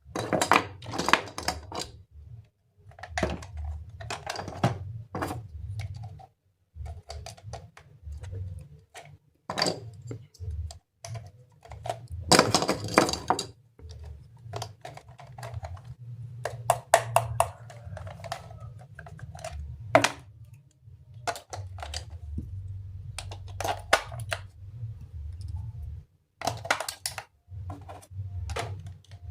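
Irregular clicks and clatter of small plastic toy train parts being handled and snapped together, with about a second of denser scraping noise roughly twelve seconds in.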